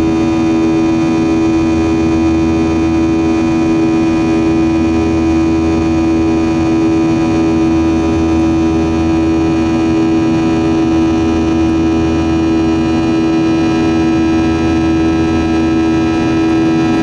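Boeing 737-700's CFM56-7B turbofan engines heard from inside the passenger cabin during the climb: a loud, steady drone with a strong, even whine running through it.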